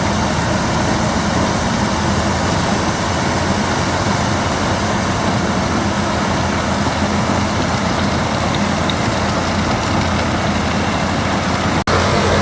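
Albach Diamant 2000 wood chipper running steadily as it chips branches, a dense even machine noise with a faint high whistle that slowly drops in pitch midway. The sound breaks off for a split second near the end.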